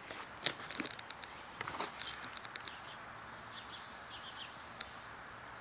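Birds chirping in the background, with a few scattered sharp clicks and knocks.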